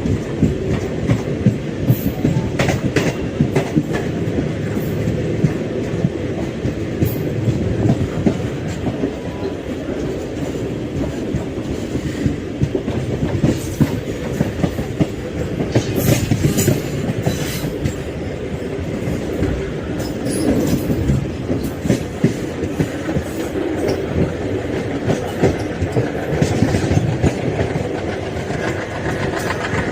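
ALCO diesel locomotive engine chugging as the train runs, with wheels clattering over the rail joints. Steady, loud running throughout, broken by frequent short clicks and knocks.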